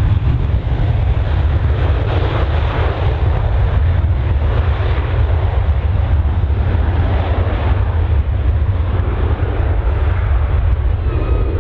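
Jet airliner's engines at takeoff thrust: a loud, steady noise with a heavy low rumble.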